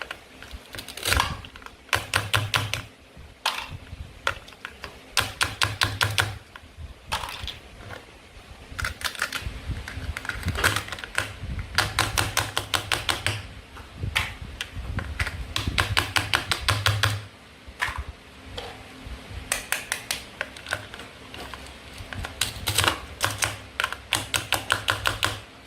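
Plastic toy play food and toy knife clicking in quick runs of about ten sharp clicks a second, each run lasting about a second, with short pauses between.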